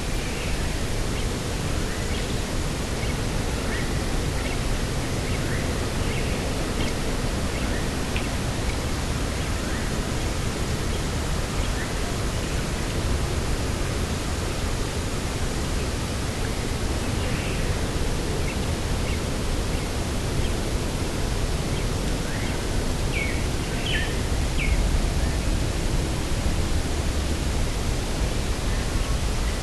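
Steady wind noise with a low rumble, the wind buffeting the microphone. Faint scattered bird chirps sound through it, with a few clearer calls about two thirds of the way in.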